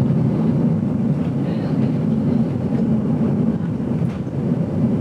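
GoldenPass Belle Époque train running, heard from inside the carriage: a steady low rumble of the wheels on the rails with a few faint ticks.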